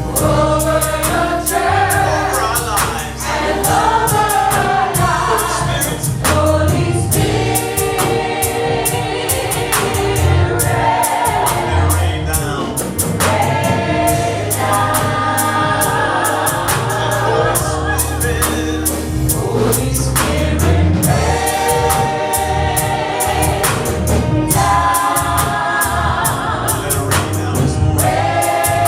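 Gospel choir singing with a band, bass holding low notes under a steady cymbal beat.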